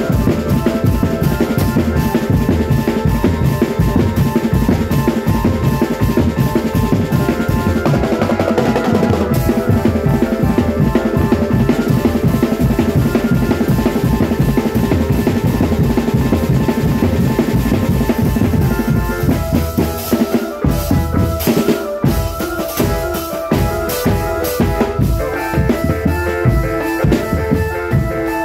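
Marching drum band playing fast, dense snare and bass drum beats under a sustained melody, with a brief break and a change of pattern about twenty seconds in.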